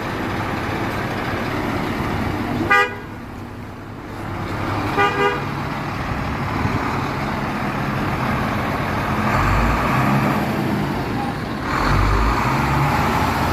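Truck horn tooting once, then twice in quick succession, over a running truck engine that grows louder and deeper in the second half.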